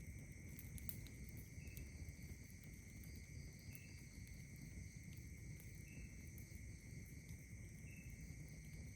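Faint night insects, crickets among them, trilling steadily in several high pitches, with a short chirp repeating about every two seconds over a low outdoor rumble. A few faint clicks are scattered through it.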